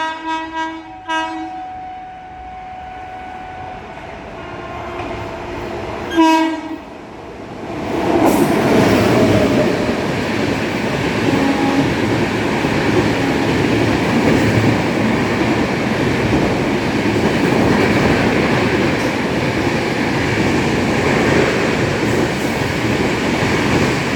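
Rajdhani Express train's locomotive horn sounding in short blasts at the start and once more about six seconds in. Then the express passes at speed, with a loud, steady rush of wheels and coaches on the track for the rest of the time.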